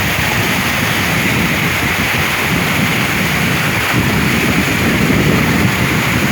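Steady rush of a waterfall, with wind buffeting the microphone.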